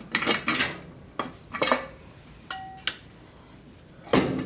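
Metal tools and engine parts clinking and clattering in a series of sharp knocks, one giving a short ringing note about two and a half seconds in, with a louder clank near the end.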